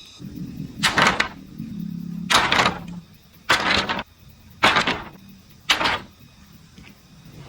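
Bamboo being worked with a hand tool: five noisy strokes, a little over a second apart.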